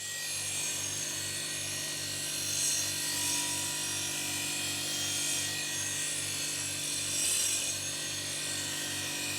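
Small power tool running steadily with an abrasive, rubbing hiss, of the kind made by grinding, brushing or polishing metal. The hiss swells a few times over a low, pulsing hum.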